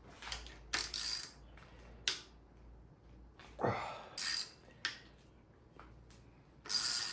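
Hand ratchet working the rocker arm bolts on a Chrysler 360 Magnum cylinder head, in short bursts of clicking with clinks of metal parts, about seven separate bursts spread through.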